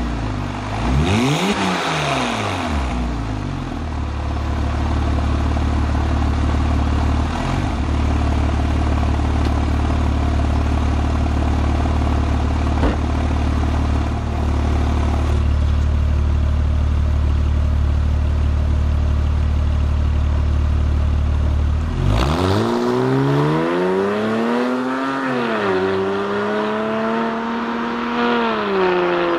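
Porsche 997 Carrera S flat-six engine through an Innotech performance exhaust. It is blipped up and down at the start, then runs at a steady low drone for most of the time. Near the end it revs up, dips briefly, then rises again and is held at higher revs.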